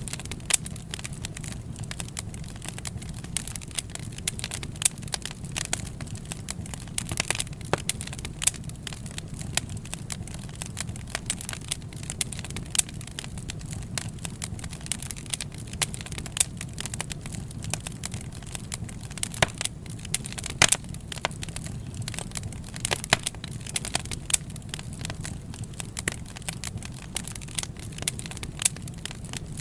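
Wood fire burning with constant irregular crackling and sharp pops over a steady low rumble of the flames.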